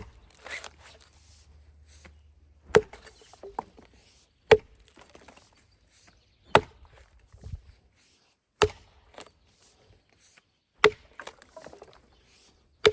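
Freshly sharpened axe chopping into a log: about six sharp strikes, one every two seconds or so, each followed by a light clatter of wood chips.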